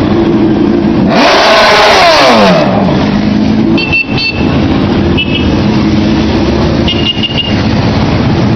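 Motorcycle engines running. About a second in, one bike goes past loud, its engine note falling steeply as it goes. Three short high-pitched beeps follow later.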